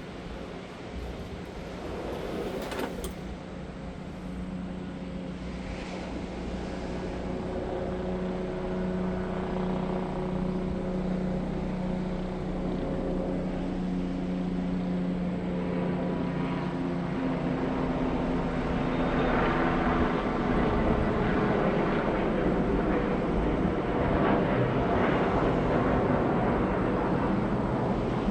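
A steady engine drone with a constant hum, growing gradually louder as it approaches.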